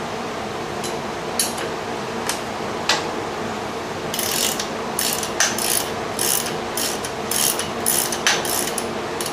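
Socket ratchet wrench loosening a nut on the gym's frame: a few single clicks, then from about four seconds in, repeated bursts of fast ratchet clicks.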